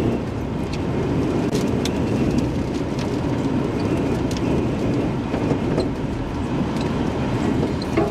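Steady rumble of road and engine noise heard from inside a moving vehicle, with a few faint ticks.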